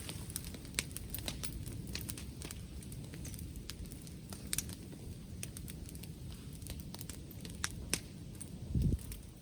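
Wood bonfire crackling, with sharp, irregular pops over a steady low rumble. A louder low thud comes near the end.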